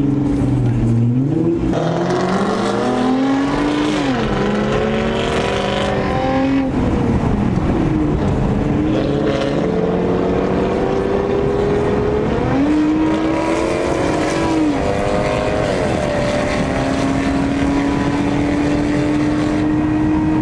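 Car engine revved again and again, its pitch climbing and dropping several times, then held at a fairly steady pitch that creeps slowly up over the last few seconds.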